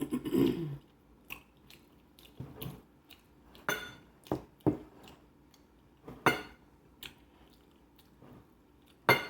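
Close-miked eating: a person chewing and biting food, with short wet mouth clicks and smacks scattered through, and a brief voiced mouth sound at the start.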